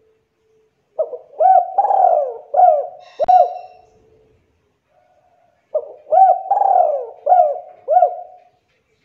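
Spotted dove (tekukur) cooing in two phrases of several rhythmic, looping coo notes with a pause between them, with one sharp click during the first phrase.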